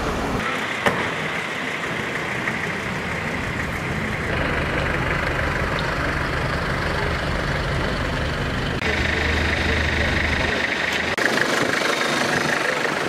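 Off-road 4x4 engines idling and running at low revs; the sound changes abruptly a few times.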